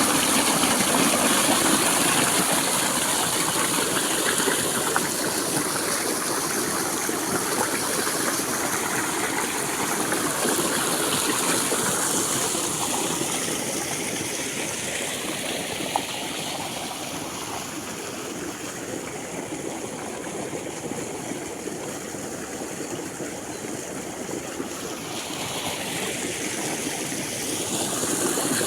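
Water gushing steadily from the outlet of a tractor-driven, belt-operated water pump, easing off a little midway and swelling again near the end.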